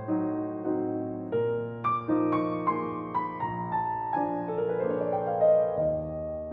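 Instrumental piano music: a slow, gentle piano piece with struck notes over held chords, its melody stepping downward through the second half.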